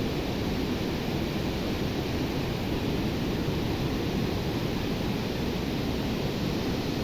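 Steady rushing of a river in flood, an even noise with most of its weight low down and no change in level.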